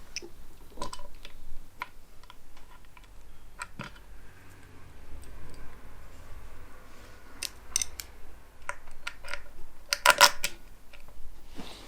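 Light clicks and taps of bolts being handled and started into a Kranzle pressure washer pump's housing plate, with a louder cluster of clicks about ten seconds in.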